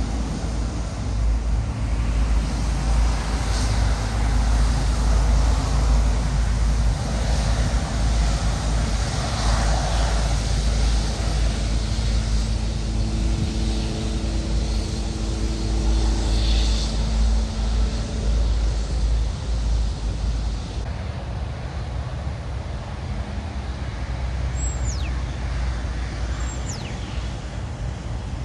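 Jet airliner engines running loud and steady, with a deep rumble and a few droning tones in the middle. The rumble drops off about two-thirds of the way through, and two short high falling whistles follow near the end.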